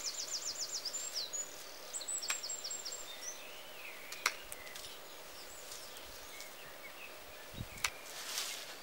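Small songbirds singing high up: a fast trill of repeated notes at the start, then scattered chirps and short whistles. A few sharp snaps are heard in between.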